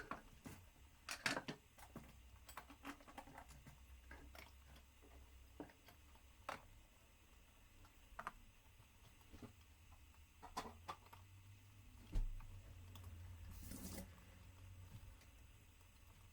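Quiet room with scattered light clicks and taps of small objects being handled, and a brief hiss about three-quarters of the way through.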